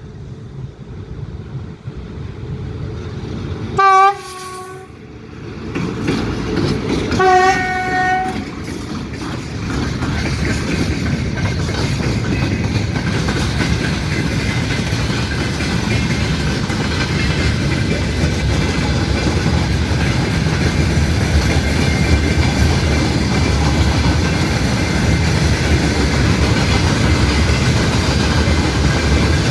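A train sounds two short horn blasts, about three seconds apart, each about a second long, then passes close by with steady, loud rolling wheel noise and clickety-clack on the rails.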